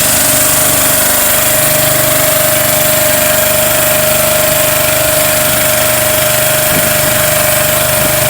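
A small engine running steadily and loudly, with a constant whine.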